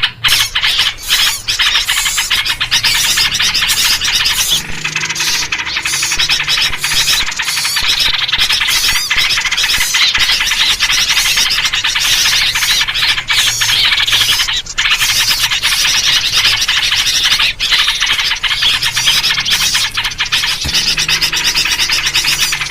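Dense, continuous chorus of many small songbirds chattering and calling at once, with yellow-vented bulbul (trucuk) calls among them. It is a noisy bird-lure recording.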